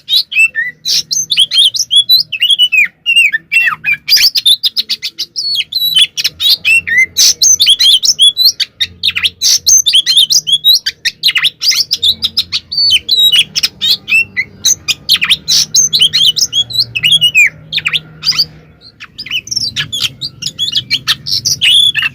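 Oriental magpie-robin (kacer) singing loudly and without letup, a rapid run of sharp high whistles, chirps and trills, with a brief lull near the end.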